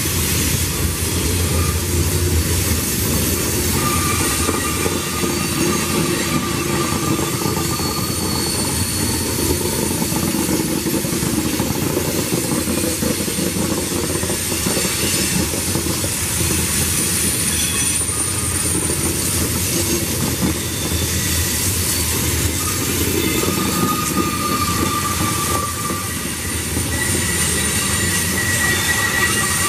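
Train cars rolling past on the rails, a steady rumble of steel wheels on track with thin wheel squeals coming and going at several pitches.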